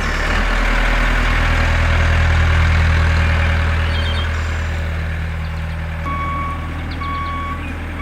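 Heavy vehicle engine running with a steady low hum, joined about six seconds in by a reversing beeper beeping about once a second.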